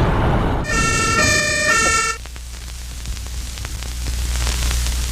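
A noisy rumble fades into a siren-like sound effect, two tones alternating quickly for about a second and a half, followed by a steady low rumble.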